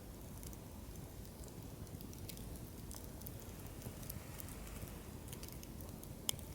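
Wood fire in a fire-pit stand crackling over a low steady rumble, with scattered small pops and one sharper pop near the end.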